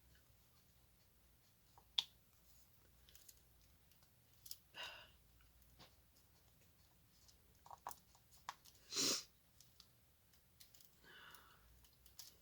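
Scattered soft clicks and taps of a diamond-painting drill pen picking up resin drills and pressing them onto the canvas, with one sharper tap about two seconds in. A couple of short brushing noises come about five and nine seconds in.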